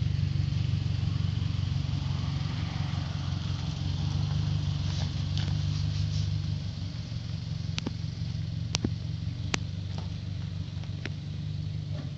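A car engine idling steadily, its low hum unchanging, with a few sharp clicks in the second half.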